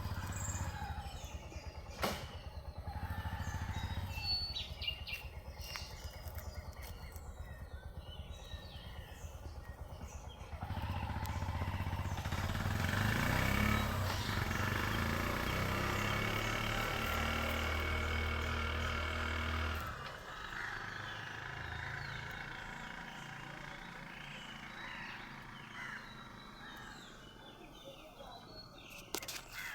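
A motor running with a low rumble, louder for about ten seconds from a third of the way in, over rural outdoor background with scattered short high calls.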